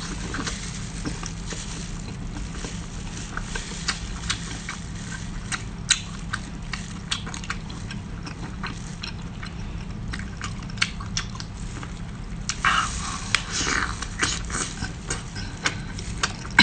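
Close-up eating sounds: a person chewing and biting food with irregular wet clicks and smacks, over a steady low hum, and a denser burst of mouth noise about twelve to fourteen seconds in.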